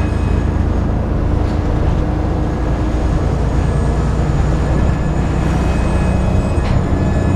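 Dennis Trident 2 double-decker bus under way, heard from on board: a steady engine drone with a thin whine over it, the 'hoovering' that enthusiasts note on this bus.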